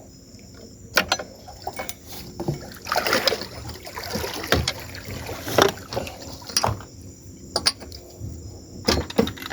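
Scattered clicks and knocks of hand tools against metal as a spark plug is worked out of an outboard engine. The knocks come about once a second, with a busier stretch of handling noise in the middle.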